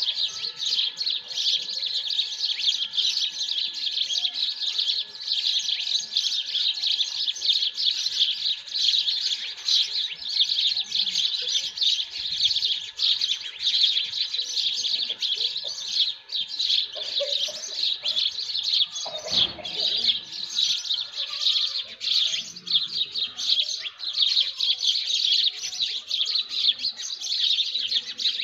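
Many small birds chirping together in a dense early-morning chorus, with a faint steady high tone under it that stops about three-quarters of the way through.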